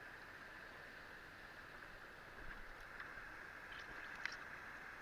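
Steady rush of flowing river water around a rubber raft, with a few faint clicks and knocks near the end.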